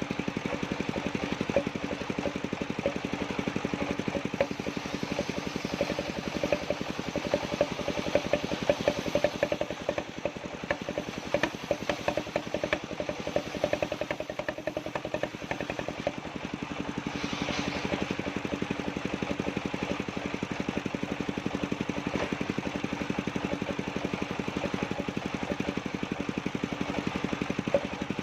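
The engine of a wood-cutting circular sawmill running steadily with a fast, even firing beat, and a brief brighter hiss about two-thirds of the way through.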